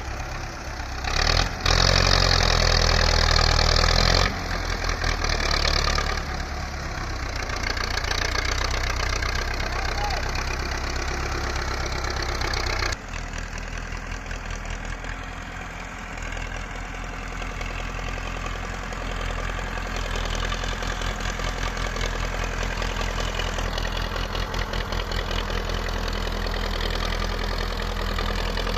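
Tractor diesel engine running under load, pushed hard for a few seconds near the start and then running on at a steadier, lower level with an even knocking throb.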